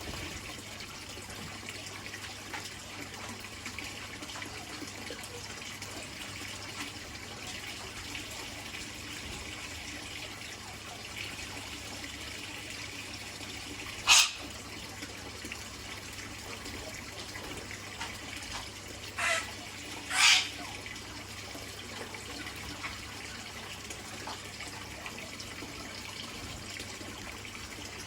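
Steady trickling-water hiss with three short, loud bird calls: one about halfway through, then two about a second apart a few seconds later.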